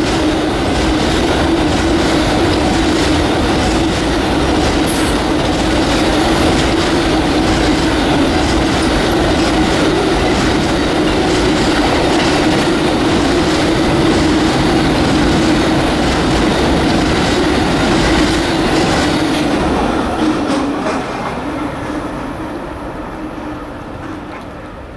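Long Amtrak Auto Train of passenger and auto-carrier cars rolling past at speed, wheels clicking over the rail joints with a steady squealing tone from the wheels. The noise fades over the last few seconds as the end of the train goes by.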